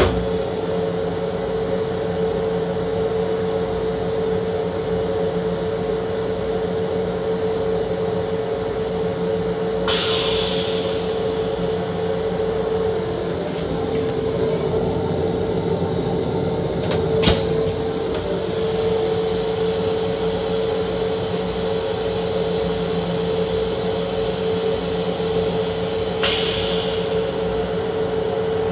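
Long Island Rail Road M7 electric railcar running, heard from inside the car: a steady rumble with a constant hum, two short hisses and a single knock partway through.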